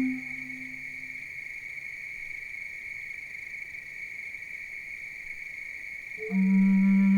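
A steady high-pitched insect trill, cricket-like, heard alone in a gap in the music; a low held synth-like note comes back in about six seconds in.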